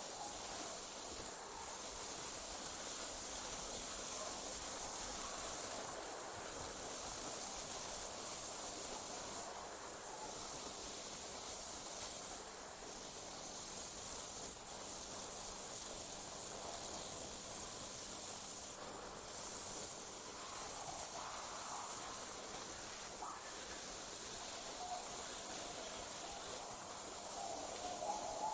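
Night insects trilling in a steady, high-pitched chorus that breaks off briefly every few seconds.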